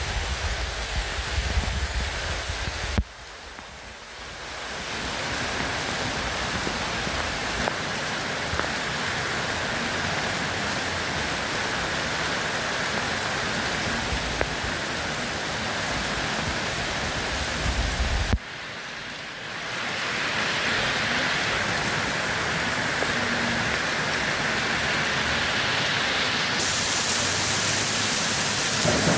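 Steady heavy rain, an even hiss, with a low rumble of thunder in the first three seconds and again just past halfway. Twice the sound drops away abruptly and swells back within a couple of seconds, like joins in a looped recording.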